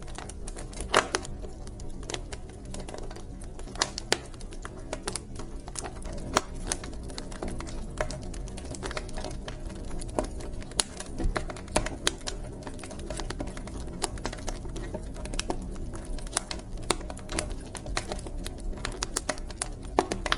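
Wood fire burning in a fireplace, crackling with irregular sharp pops over a low steady rumble of flame.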